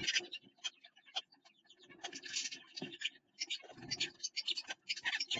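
A finch rustling and scratching inside a nest box: irregular scrapes and clicks of its feet and beak working the nesting material against the box floor, with a few soft low thumps.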